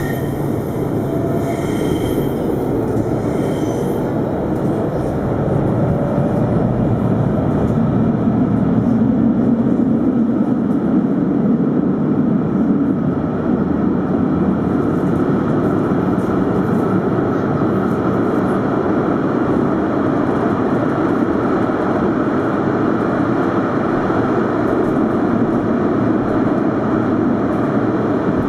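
Alstom Citadis 402 tram running along the track between stops, a steady rolling and motor rumble heard from on board. A few faint wheel squeals come in the first seconds, and the rumble grows a little louder about six seconds in.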